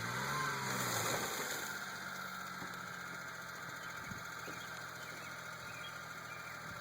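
Mini truck's engine revs up and falls back in the first second or so, then settles into a steady idle.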